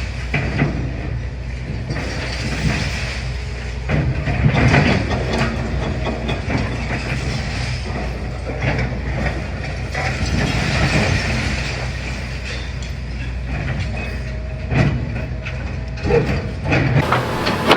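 Demolition excavator's diesel engine running steadily, with irregular knocks, rattles and crunching of rubble and metal. The sound changes abruptly near the end.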